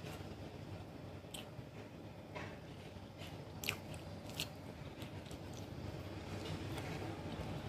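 Close-up chewing of roast chicken, with scattered crisp clicks and crunches from the mouth.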